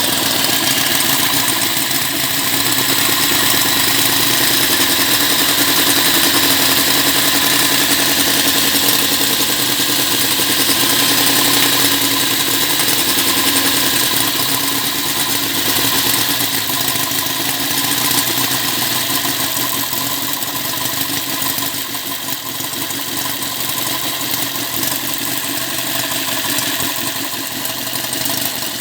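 Small homemade inline-four engine running continuously, a little quieter in the second half.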